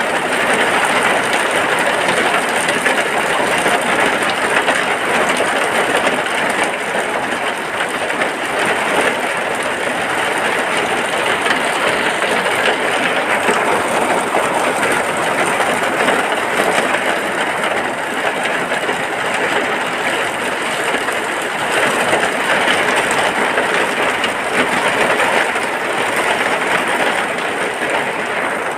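Steady rain falling on a hut, an even unbroken hiss with no distinct drops or pauses.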